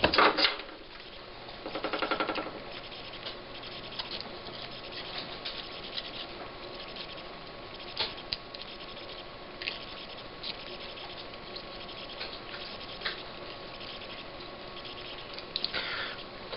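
Soldering iron working desoldering braid over flux-coated pads on a circuit board: scattered small crackles and ticks as the braid wicks up old solder. A short buzzing rattle about two seconds in.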